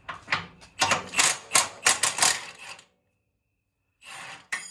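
Hand tools working on a bolt in the bus's steel engine cradle: a quick, irregular run of metal clicks and knocks for nearly three seconds. A ringing metal clink comes at the very end.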